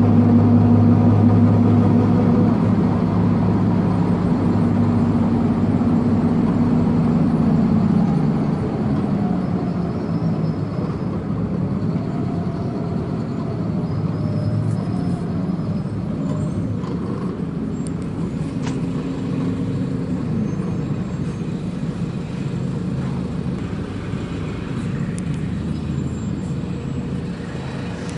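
Four-cylinder diesel engine of an Agrale MT 17.0 LE bus running with a strong, steady note. About eight seconds in, the note falls in pitch and loudness, and the engine runs on more quietly.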